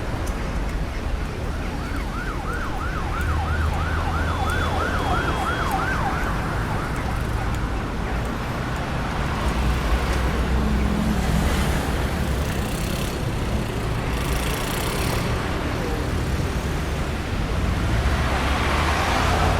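Steady road-traffic rumble. About two seconds in, a distant emergency-vehicle siren yelps rapidly up and down, about three cycles a second, for five seconds or so before fading out. Later, vehicles pass with louder swells of tyre and engine noise.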